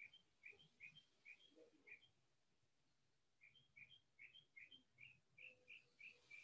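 Faint bird chirping: a quick series of short, high chirps, about two or three a second, breaking off around two seconds in and starting again about a second and a half later.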